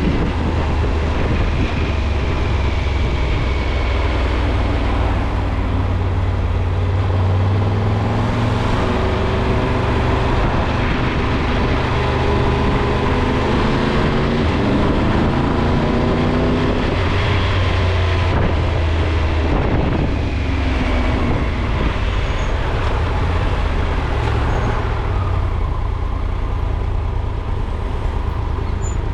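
A car driving, with a steady low rumble of engine and road; the engine note climbs for several seconds about a third of the way in, then drops away.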